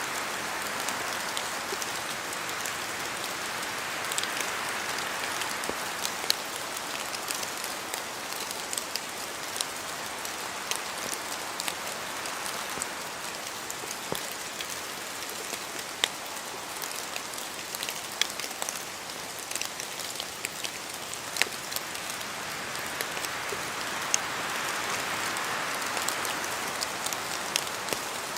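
Steady rain in a forest, with many distinct drops ticking sharply on leaves and surfaces over a continuous hiss. The hiss swells a little in gusts, near the start and again toward the end.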